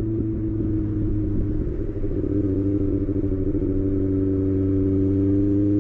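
Kawasaki ZX-6R inline-four engine running steadily at a constant pitch, which dips slightly about two seconds in and then holds level.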